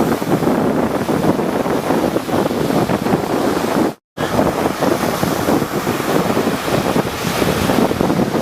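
Rough sea surf washing and breaking, with wind buffeting the microphone. The sound cuts out completely for a split second about halfway through.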